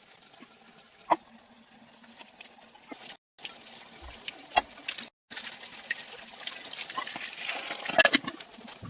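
Water splashing and pouring, building up to a busier stretch near the end, with a few sharp knocks. Two brief dropouts to silence break it up.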